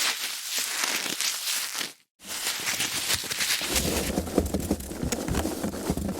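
Foam packaging being handled, with dense crackling and rubbing. A brief break about two seconds in, then from a little after the middle a heavier, lower rubbing sound.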